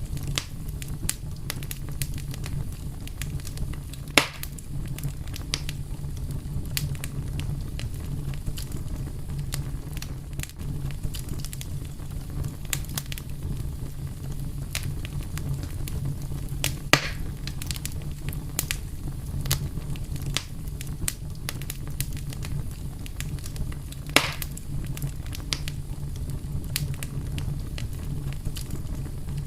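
Wood fire burning with a steady low rumble and constant small crackles, with three louder pops about four, seventeen and twenty-four seconds in.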